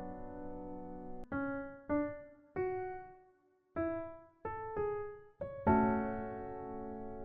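Software piano sound in Omnisphere playing a slow melody. A held chord fades out, then seven single notes follow one at a time, and a fuller chord strikes near the end.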